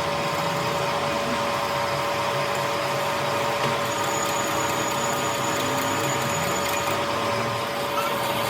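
A workshop machine running steadily, with a constant whine over a noisy hum.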